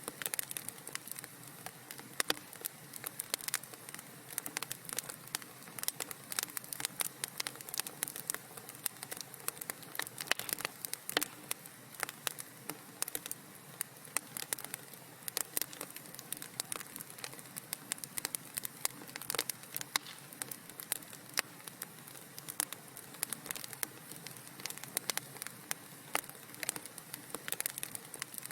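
Wood fire crackling in a fireplace: a soft steady hiss with many sharp pops and snaps at irregular intervals.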